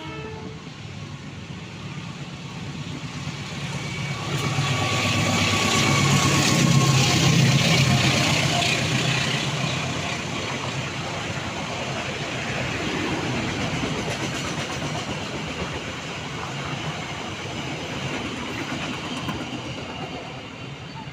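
Train passing close by, growing louder to a peak about seven seconds in, then easing off and running on steadily.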